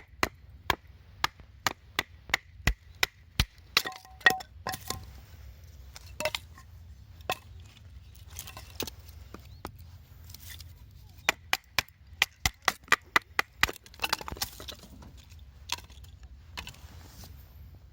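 Wood being chopped or split with a blade: sharp knocks at about two to three a second in a run at the start and another run past the middle, with scattered single knocks between.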